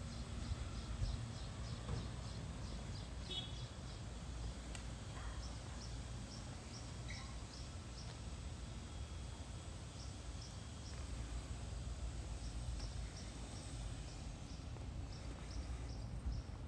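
A bird chirping, short high notes about three a second, with brief pauses, over a steady low outdoor rumble.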